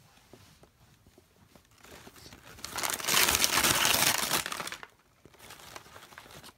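Gift wrapping paper crinkling and rustling, loudest for about two seconds in the middle, after a few faint light ticks.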